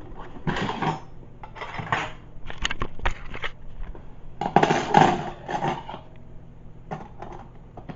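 A metal clip-together camp cutlery set (knife, fork and spoon) being handled, pulled apart and slid back together, giving several bursts of metal clinks, clicks and rattles.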